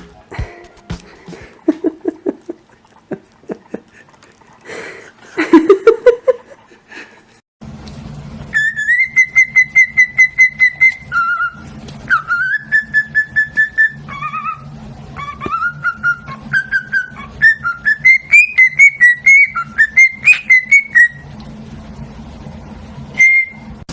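A pet parrot whistling a tune: clear whistled notes stepping up and down in pitch, many of them pulsed with a rapid flutter. Before this there are clicks and a short, loud, low gliding call.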